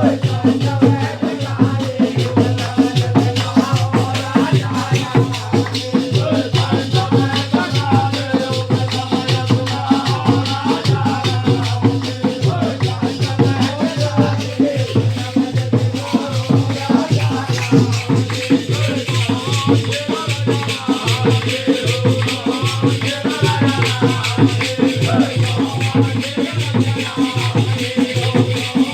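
Holi faag folk music performed live: a melody sung or played over a steady low drone, with fast, continuous jingling and rattling percussion.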